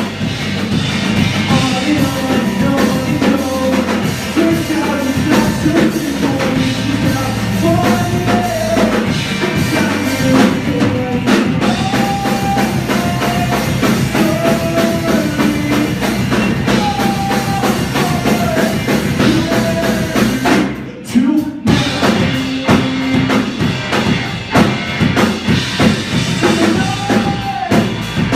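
A live rock band playing: drum kit, bass and electric guitar at full volume, with a melody line over it. The band breaks off briefly about three-quarters of the way through, then comes straight back in.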